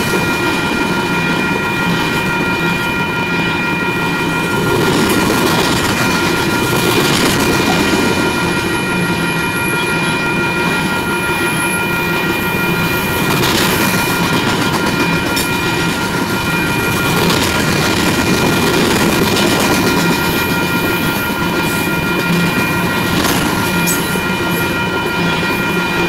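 Loaded coal train's gondola cars rolling past: a steady rumble and clatter of steel wheels on the rails, with a steady high ringing tone over it.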